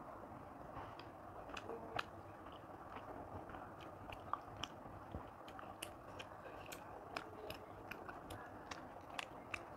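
Close-miked eating by hand: chewing with scattered small wet mouth clicks, and fingers mixing rice and curry on a plate.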